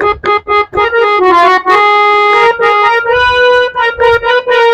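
Harmonium playing a bhajan melody: a run of short notes, then long held reedy notes from about a second and a half in, with the tune shifting over them.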